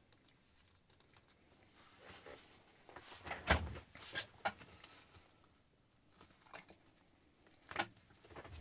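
Light clicks, taps and clinks of small repair tools and pieces of the cracked iPad glass being handled on the work surface. The loudest tap comes about three and a half seconds in, a few more follow just after, and one more comes near the end.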